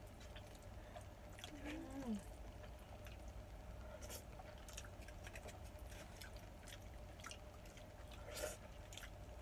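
Faint sounds of eating spaghetti: scattered small mouth and utensil clicks over a low steady hum, with a short hummed voice sound about two seconds in.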